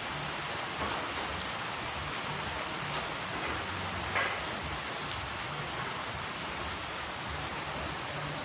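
Steady rain falling on a road and puddles, an even hiss with scattered sharp drop clicks and one brief louder sound about four seconds in.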